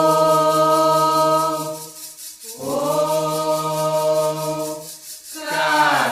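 Voices chanting a Candomblé song for Xangô in Yoruba. They hold two long notes of about two seconds each, then slide down in pitch on a third near the end.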